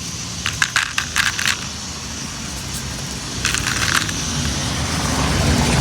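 Gravel crunching and rattling in two short clusters, about a second in and again past three seconds, over a steady low rumble that grows louder after about three seconds.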